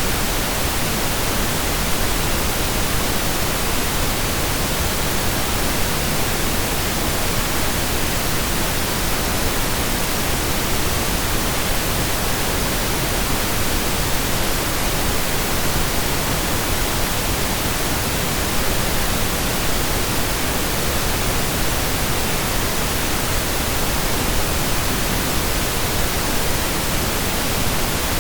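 Steady synthesised pink noise: an even hiss spread across the whole range of hearing, with equal energy per octave, unchanging throughout.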